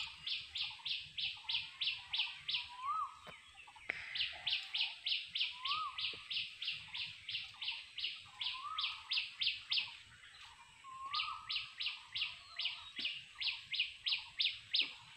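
Birds calling: one bird gives long runs of sharp, high chirps, about four a second, pausing briefly between runs, while another whistles a short rising-and-falling note every few seconds.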